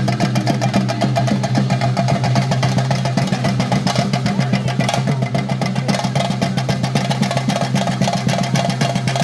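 Theyyam percussion: chenda drums beaten in a fast, continuous, even roll, with a steady low hum underneath.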